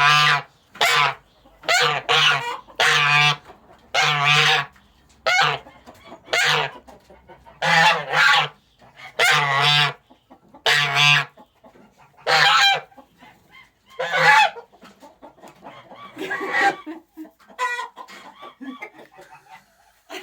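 Domestic gander honking loudly and repeatedly, about one short harsh call a second, at the climax of his mating display. The calls thin out and stop about three-quarters of the way through.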